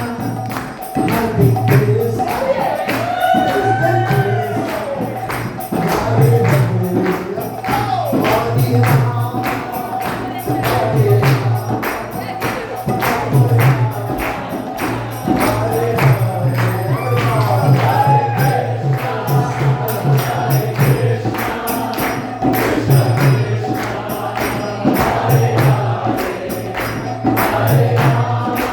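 Group devotional kirtan: voices singing together over a fast, steady beat of small hand cymbals and a pulsing low accompaniment.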